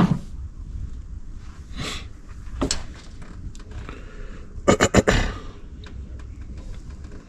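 Hand tools knocking and clinking on metal engine parts: a couple of single knocks, then a quick cluster of several knocks about five seconds in, over a low steady hum.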